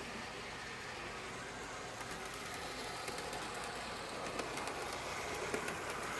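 A train passing by: a steady rolling rumble with scattered clicks, growing a little louder toward the end.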